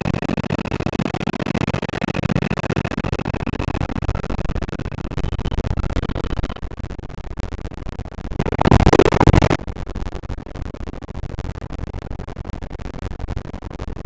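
R142 subway car running on the rails, heard from inside: a steady rumble of wheels and track. A faint high tone sits over it in the first half. About two-thirds of the way through comes a brief, louder rush.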